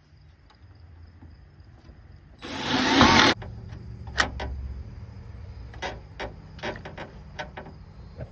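Power drill whirring for about a second, rising as it drives a self-tapping screw that fastens down a tailgate latch cable, followed by scattered light clicks and knocks of handling parts.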